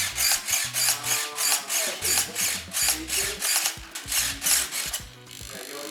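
Small RC servo gearbox whirring in short rapid bursts, about five a second, as it is driven back and forth during a servo test; it stops near the end.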